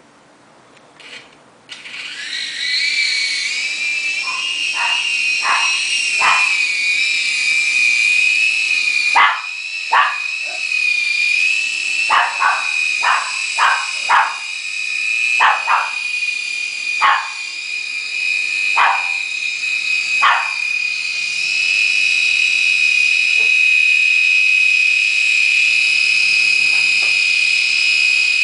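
Toy micro helicopter's small electric motors spinning up about two seconds in and then running with a steady high-pitched whine; one of its motors is failing. Short sharp sounds, a dozen or more, come irregularly through the middle of it.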